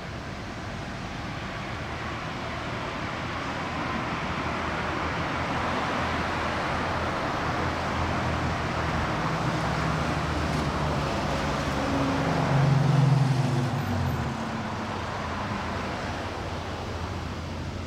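A motor vehicle passing by: its engine and tyre noise build up over several seconds, peak about thirteen seconds in, then fade away.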